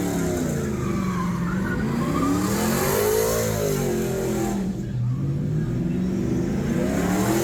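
Car engine revving up and down during a burnout, its pitch rising and falling in slow waves about every three to four seconds, over the hiss of spinning, skidding tyres.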